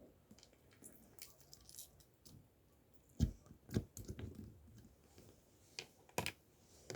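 Scattered small clicks and knocks in a quiet room, the loudest about three seconds in and again near the end.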